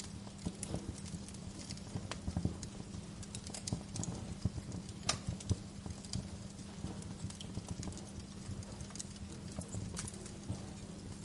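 Wood fire crackling in a fireplace: irregular snaps and pops over a low, steady rumble of burning.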